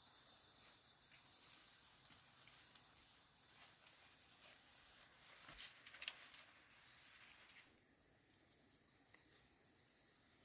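Faint, steady high-pitched insect chorus, with a few soft clicks about six seconds in.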